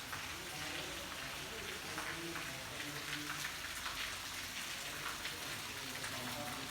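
Heavy rain falling in a steady hiss, with many separate drops ticking and splashing on hard surfaces.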